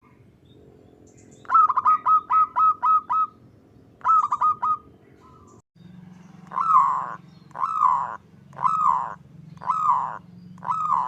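Zebra dove (perkutut) calling. First come two quick runs of short, clipped notes, then a slower series of longer cooing notes, about one every 0.7 seconds.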